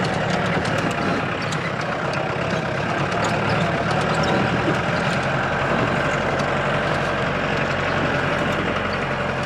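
Off-road jeep's engine running steadily under load on a rough mountain track, heard from inside the cabin, with a low hum and scattered light rattles and knocks from the bouncing vehicle.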